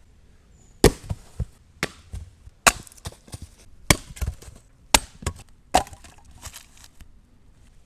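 Chopping into wood: about six hard chops roughly a second apart, with lighter knocks between them and a few softer ones near the end.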